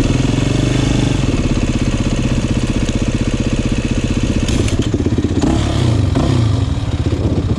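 Dirt bike engine running close by with a rapid, even firing pulse, and a few brief rises and falls in revs in the second half.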